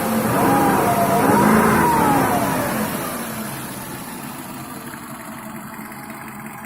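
BMW M60B40 4.0-litre V8 revved briefly, rising and wavering in pitch, then dropping back to idle about three seconds in. The owner hears a knock from this engine's left cylinder head, with the body jerking.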